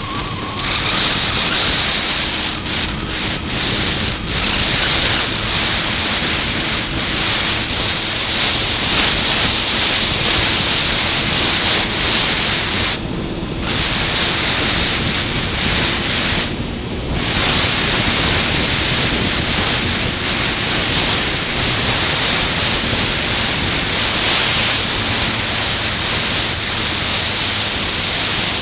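Heavy wind noise battering a motorcycle-mounted action camera's built-in microphone at riding speed, almost burying the Triumph Sprint ST 955i's three-cylinder engine. The rush drops away briefly twice, about 13 and 16 seconds in.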